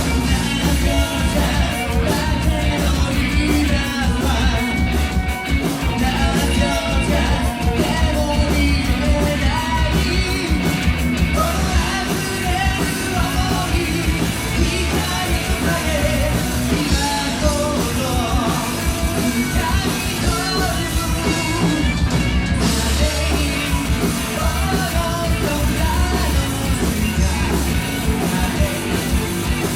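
Live rock band playing a song with a lead singer, the band loud and steady throughout.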